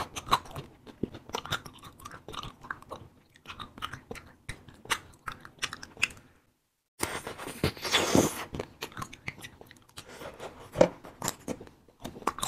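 Close-miked biting and chewing of fruit-filled wax candy: a dense run of small, irregular mouth clicks and crunches. The sound cuts out completely for a moment a little past the middle, then comes back louder.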